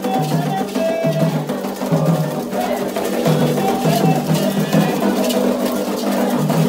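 Candomblé ritual music, led by drums and a struck percussion pattern in a steady repeating rhythm.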